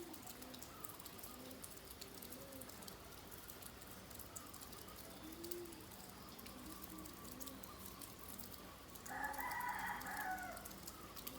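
Chickens clucking with short low calls, and a rooster crowing once about nine seconds in, its crow falling at the end, over light rain.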